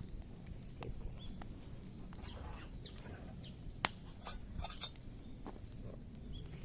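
Campfire of zelkova and willow branches crackling: scattered sharp pops, with one louder pop about halfway through and a quick cluster just after it. Faint high chirps can be heard behind.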